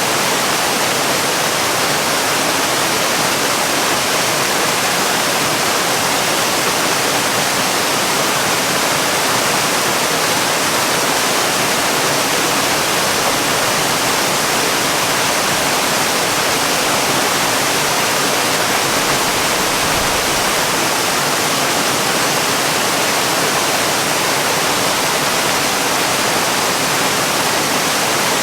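Waterfall: a steady rush of falling water, even and unchanging, like white noise.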